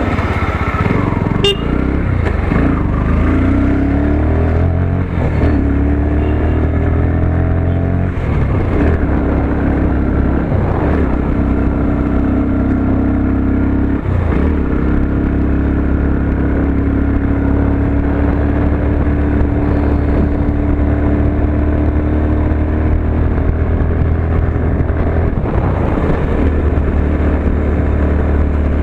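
Motorcycle engine running while riding, its pitch rising and dropping through the first half with a brief break about halfway, then holding steady.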